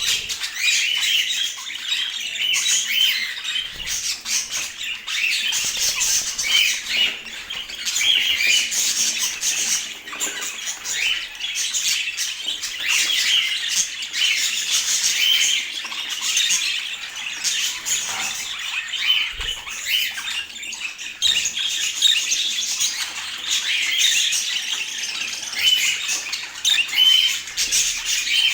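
Budgerigars chattering without a break: a dense run of short chirps, squawks and warbles.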